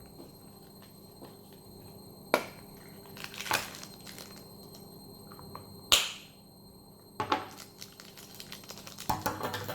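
Plastic toy packaging being handled and opened by hand: a few sharp isolated clicks and snaps, then a quick run of small crinkles and clicks near the end.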